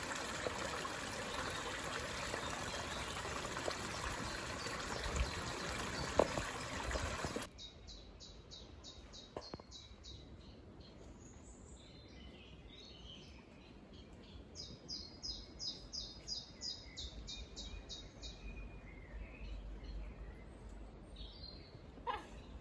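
A small stream trickling steadily, cutting off abruptly about seven seconds in. Woodland birdsong follows: a songbird's quick series of short, high repeated notes, heard twice, with scattered softer chirps from other birds.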